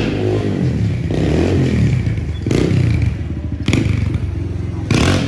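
Motorcycle engine revving up and down repeatedly, its pitch rising and falling, with a few sharp bursts of noise along the way.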